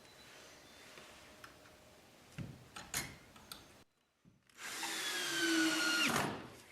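A few light clicks, then a power drill-driver runs for about a second and a half, driving a screw into a wooden stud to fasten an electrical box; its whine sags slightly in pitch before it stops.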